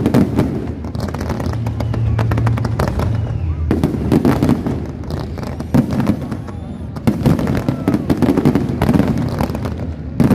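Fireworks display: a rapid run of bangs and crackling bursts over a steady low rumble, with thin whistles of rising shells here and there in the middle and near the end.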